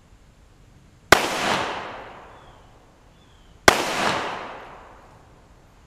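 Two pistol shots from a .45 ACP M1911, about two and a half seconds apart, each followed by a long echo that fades out.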